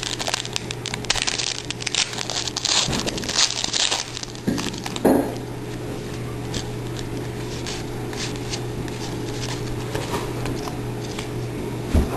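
Trading cards and their foil pack wrapper being handled, crinkling and rustling. The rustling is dense for about the first five seconds, then quieter with a few faint clicks, over a steady low hum.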